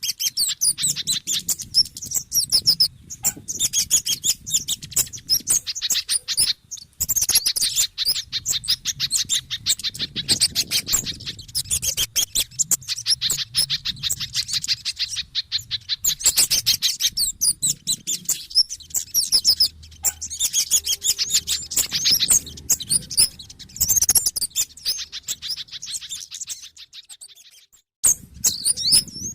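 Bird-lure recording of excited, rapid high-pitched chirping and chattering calls from small birds, a combination of kemade, sogon and pijantung (spiderhunter) calls. The calls break off briefly near the end and then start again.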